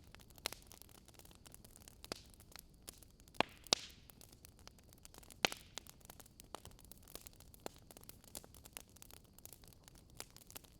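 Wood fire crackling: irregular small pops and snaps over a soft hiss, with a few sharper snaps in the middle.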